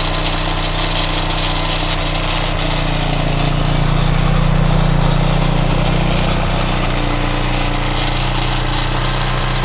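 Rebuilt 230 four-stroke motorcycle engine in a Honda CTX200 frame idling steadily in neutral, freshly fitted with new piston rings and a honed bore. It swells slightly about halfway through.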